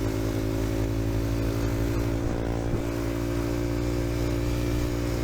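Dirt bike engine running at a steady speed while being ridden, its pitch holding even.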